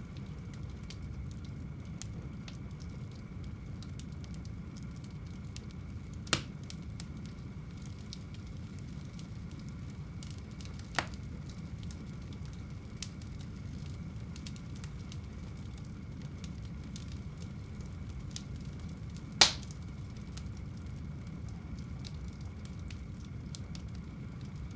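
Wood fire burning in a home fireplace: a steady low rumble of flames with fine crackling and three louder sharp pops, about six, eleven and nineteen seconds in, the last the loudest.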